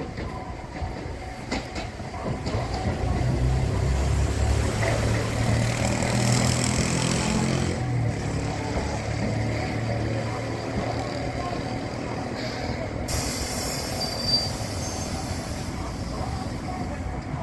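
A train running along the rails, its low running sound swelling over the first several seconds and then easing. About thirteen seconds in, a high metallic squeal of wheels on the rails joins it for a few seconds.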